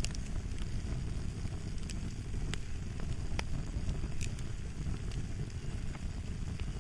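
Fire crackling: a steady low rumble with scattered sharp pops and snaps, roughly a dozen, at uneven intervals.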